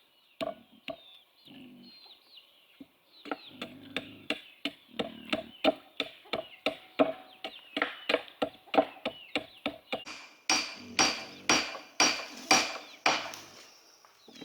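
Wood being struck with a hand tool: a quick run of sharp knocks, about three a second, starting about three seconds in, then heavier, harsher blows about twice a second near the end. Small birds chirp faintly throughout.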